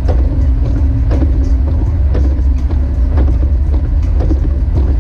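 Jeep Wrangler YJ driving on snowy roads: a loud, steady low rumble of engine and tyres, with light knocks about once a second.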